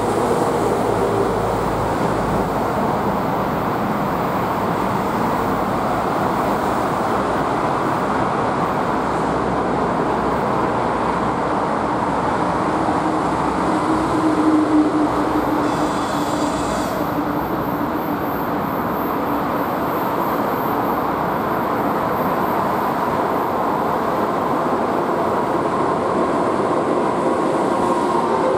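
EP2K electric locomotive hauling a passenger train as it approaches and runs past, a continuous rumble of wheels on rails. There is a brief higher-pitched sound about halfway through, and a thin high whine over much of the second half.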